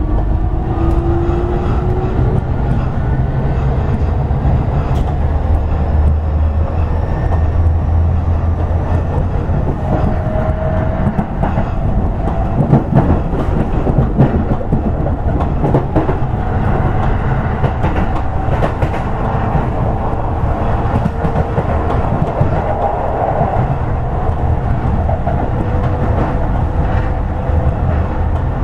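Toei 10-300 series electric train running: the motor whine rises in pitch for the first couple of seconds as it finishes accelerating, then gives way to a steady rumble of running at speed, with the wheels clicking over rail joints.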